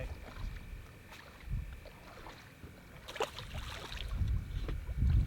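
Wind rumbling unevenly on the microphone aboard a small boat, with a sharp knock about three seconds in and a few low thumps near the end.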